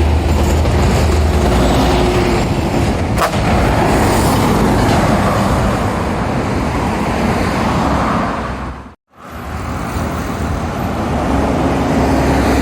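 Heavy lorries and road traffic passing close by on a highway, with engine drone and tyre noise. The sound cuts to silence for an instant about nine seconds in, then the traffic noise resumes.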